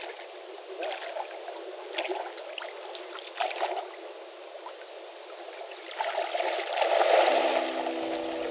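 Water trickling and splashing, with short splashes every second or so and a louder stretch of splashing near the end, where music starts to come in.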